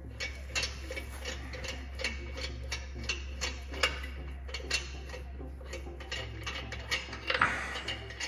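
Irregular sharp metal clicking, about two or three clicks a second, from hand tools being worked on the truck's wheel, over a steady low hum.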